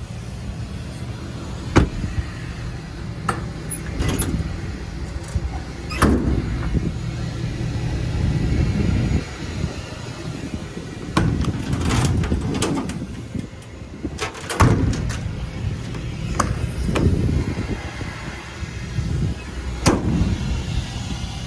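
A 6.7-litre Power Stroke diesel idling steadily, with about ten sharp clacks and knocks of doors and latches over it, the loudest about 2, 6, 14 and 20 seconds in.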